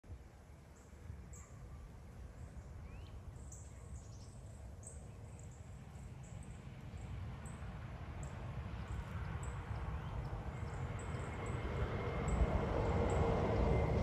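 Small birds chirping: short, high, down-slurred notes repeated irregularly, over a low rumble that grows steadily louder in the second half.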